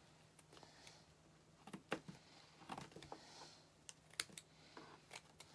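Faint, scattered light clicks and taps as small craft pieces are handled on a work table. The two sharpest come about two seconds and about four seconds in.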